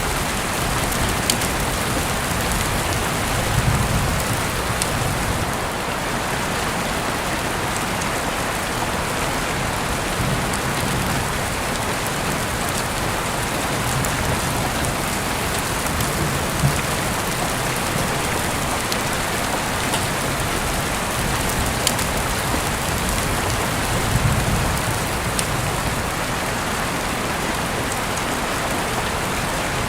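Heavy rain pouring steadily, with scattered sharper drop hits and a few brief low swells.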